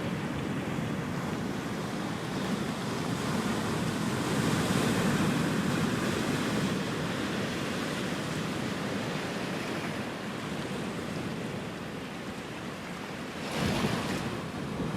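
Ocean surf washing continuously on the shore, swelling a few seconds in and easing off, with a sharper wave breaking near the end. Some wind noise on the microphone.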